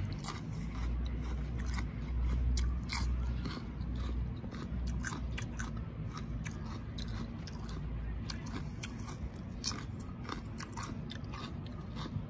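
A person chewing crunchy raw salad vegetables, cucumber and sweet pepper, close to the microphone: a steady run of crisp crunches over a low chewing rumble.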